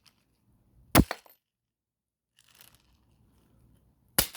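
Two sharp cracks, about a second in and again near the end, as a small plastic toy car is broken apart, with faint clatter of bits in between.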